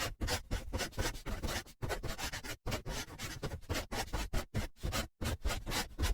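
Rapid, irregular scratching and rubbing noises in many quick strokes, broken by a few short pauses.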